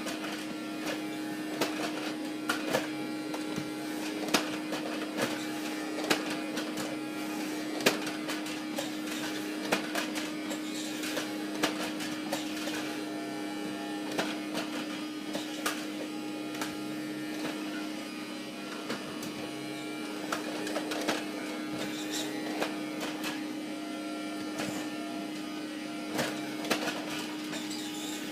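Two vacuum cleaners, a Henry HVR 200 and a Dyson, running together and vacuuming up dog hair: a steady motor hum with one strong tone, broken by frequent short clicks and knocks.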